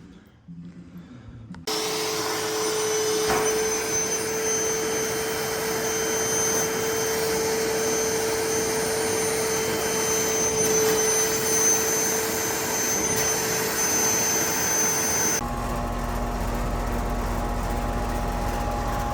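A vacuum motor switches on about two seconds in and runs steadily with a constant whine. Near the end it cuts to a different, lower steady machine hum.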